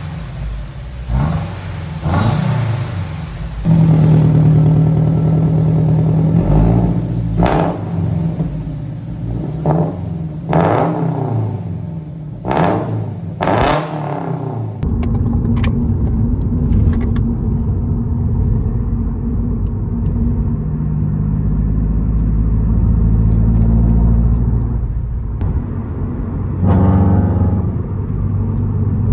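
Subaru BRZ ZD8's 2.4-litre flat-four boxer engine through an aftermarket full exhaust with header and valved cat-back, revved in a series of short throttle blips with one held rev. About halfway through it settles into a steady low rumble at light throttle, rising briefly once near the end.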